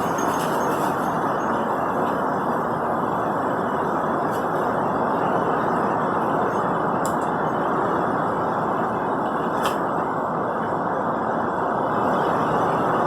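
Strong tropical-storm wind rushing steadily through the surrounding trees, a dense unbroken roar with no let-up.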